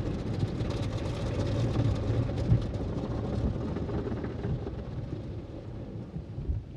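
Automatic tunnel car wash running around the car: a steady rumble with hissing water spray that grows fainter toward the end.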